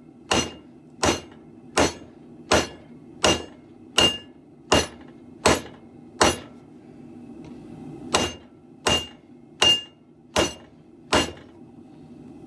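Hammer blows on a steel broadsword blade, struck in a steady rhythm about one every three quarters of a second: nine strikes, a short pause, then five more. Several blows leave a brief high metallic ring; the smith is hammering the blade straight.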